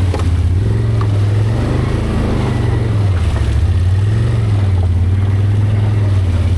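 ATV V-twin engine running at low trail speed, its note dipping and rising a few times with the throttle.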